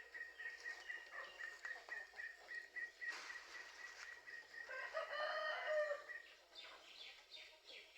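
A rooster crowing once, about five seconds in, over scattered faint bird chirps and a thin steady high-pitched tone.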